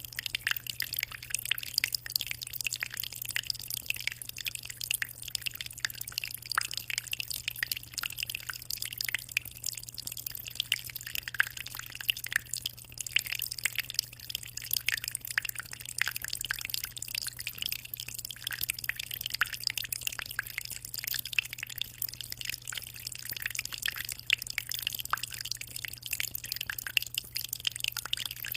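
Aquarium water trickling and splashing in a dense, continuous patter of small drips, over a steady low hum.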